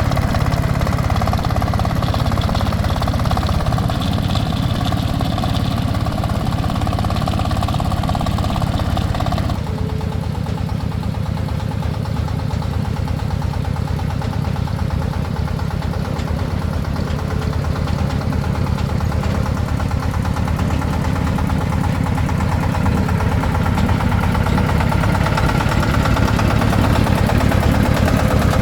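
An engine running steadily with an even pulsing. About nine and a half seconds in, the sound changes abruptly and loses its higher part, then grows slowly louder toward the end.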